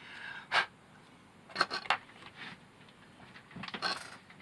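Several short clicks and clacks of small hard parts and tools being handled and set down: one about half a second in, a quick cluster of three near the middle, and a few more near the end.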